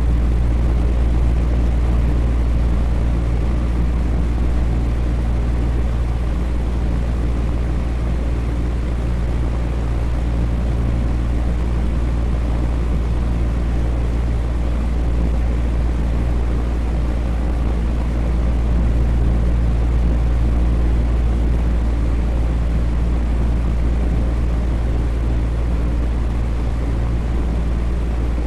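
Electric fan running steadily: an even whooshing air noise with a deep low hum and a few steady low tones from the motor and blades.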